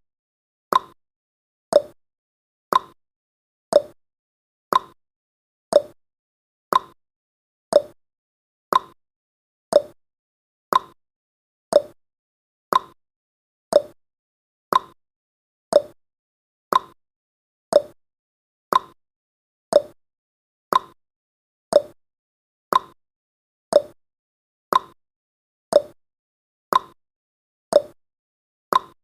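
Clock tick-tock sound effect of a countdown timer: sharp ticks, one each second, alternating between a higher tick and a lower tock.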